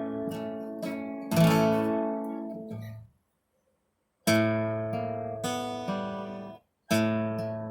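Acoustic guitar strumming chords. Three strums, each left to ring and fade, with a sudden complete dropout to silence for about a second just after the first one.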